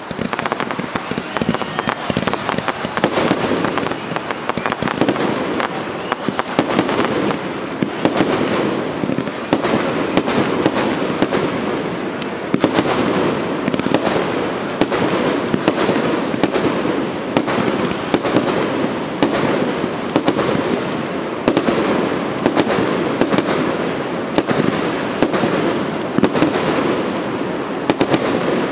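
Professional fireworks display: a dense crackle of rapid shots at first, then aerial shells bursting in loud bangs about once a second over continuous crackling, each bang with a short echoing tail.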